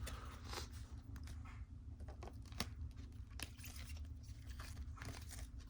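Faint scattered taps and rustles of trading cards being handled and set down, over a steady low hum.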